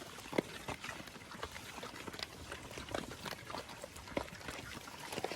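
Free-range pigs moving about, with scattered short clicks and knocks.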